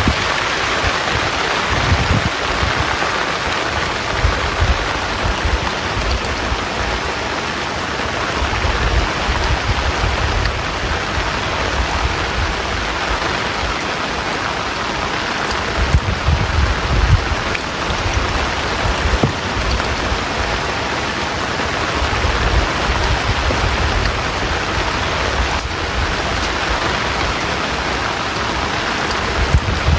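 Heavy rain pouring steadily, a dense even hiss, with irregular low rumbling swells underneath.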